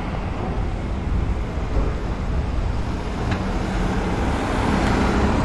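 A vehicle running: a steady low rumble with a light hiss over it.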